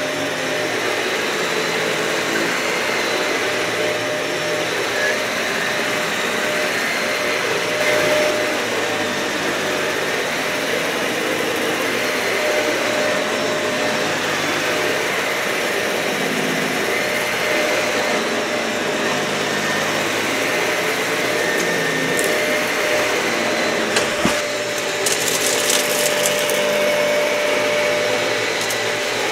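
Dyson vacuum cleaner running steadily over a matted, dirty carpet, with a steady whine over the suction noise. About 25 seconds in there is a brief burst of crackling as grit is picked up.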